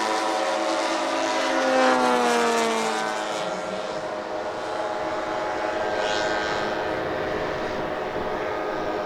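Petrol engines of large radio-controlled scale model aircraft droning in flight, several engines at once. About two to three seconds in, the pitch drops as one passes by.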